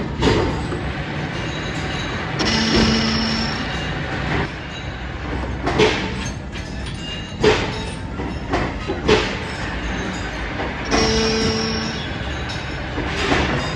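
Metalworking machinery in a sprocket factory running steadily, with several sharp metal clanks. A steady whine comes in twice for about a second, near three seconds in and again near eleven.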